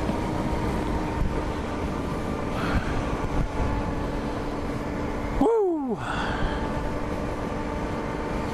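Heavy wind rush on the microphone over the steady running of a BMW G 650 GS Sertao's single-cylinder engine while riding. About five and a half seconds in, a short falling tone cuts through.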